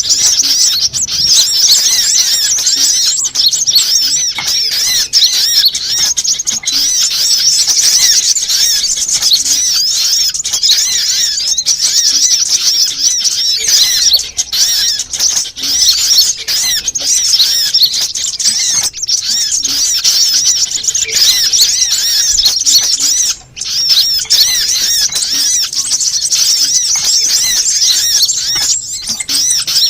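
Sunbirds (kolibri) twittering in a dense, unbroken chorus of fast, high chirps, played as a bird-lure call recording; there is one brief gap a little after the middle.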